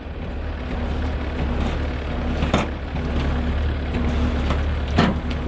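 Heavy truck diesel engine running steadily while a winch pulls, with two sharp knocks about two and a half seconds apart.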